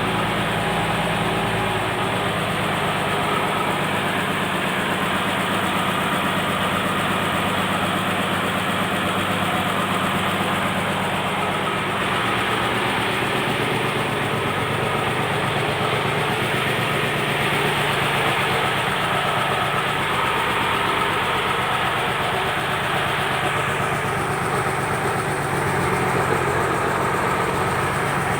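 Engine aboard a purse seine fishing boat running steadily with a constant low drone.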